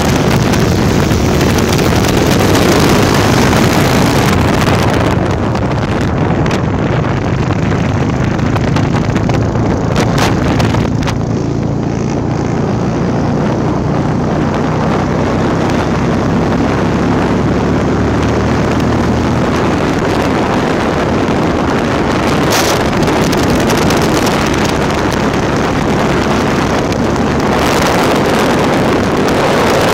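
Single-cylinder engine of a Honda Tornado motorcycle, bored to 299cc, running steadily at cruising speed, with wind buffeting the microphone.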